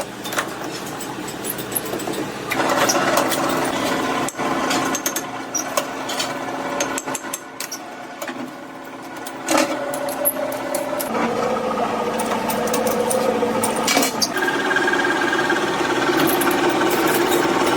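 Workshop power machinery running in stretches, each a steady hum with several tones that starts and stops every few seconds, with scattered metallic clicks and knocks.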